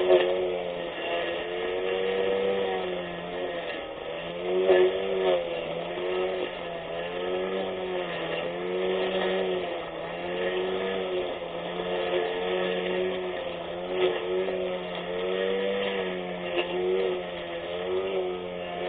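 24V brushless electric lawn mower motor running with a steady whine whose pitch sags and recovers every second or two as it cuts grass under changing load.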